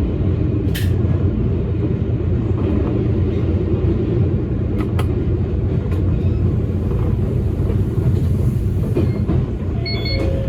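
Toyama Chihō Railway electric train running along the track: a steady low rumble of wheels and motors, with a few sharp clicks of the wheels over rail joints and a brief high tone near the end.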